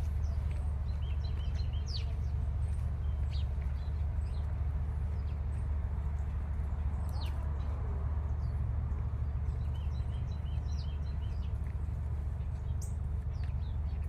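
Small birds chirping here and there, with short quick runs of high notes, over a steady low rumble.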